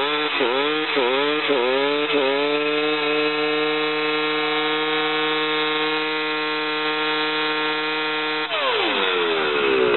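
KTM dirt bike engine revved in quick blips for about two seconds, then held at steady high revs in a burnout, front brake on and clutch just let out. Near the end the revs fall away sharply.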